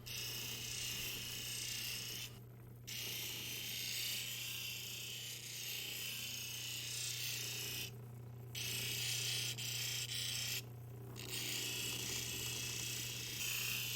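Lapidary polishing machine running with a steady motor hum while an opal is polished on the 14,000-grit wheel with cerium oxide. The hiss of the stone on the wheel drops out briefly three times, about two, eight and eleven seconds in.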